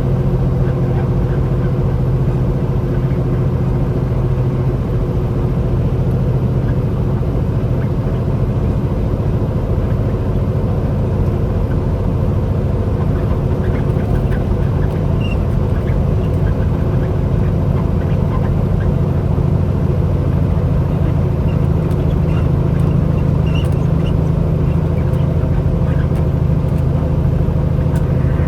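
Truck engine running steadily, heard from inside the cab: a constant low drone.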